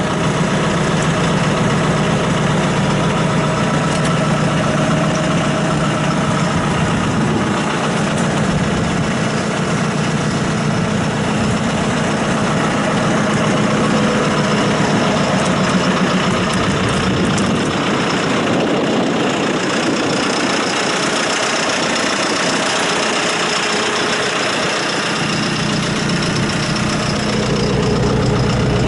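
2017 John Deere 5115ML tractor's diesel engine idling steadily.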